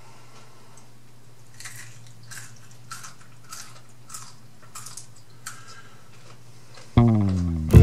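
Close-miked chewing of french fries: about seven soft crunching chews roughly two-thirds of a second apart, over a steady low hum. About seven seconds in, loud acoustic guitar music starts.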